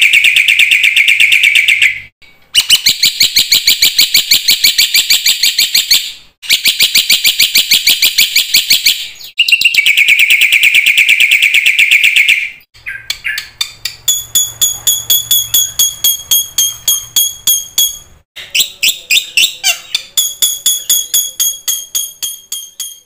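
Black-winged myna (jalak putih) singing loudly. Phrases of rapid, harsh chattering notes a few seconds long, separated by short breaks, give way about halfway through to quick runs of clear, repeated whistled notes.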